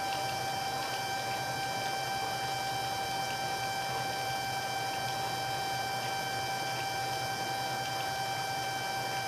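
A steady high-pitched hum with overtones over a constant hiss, unchanging throughout, with a few faint ticks.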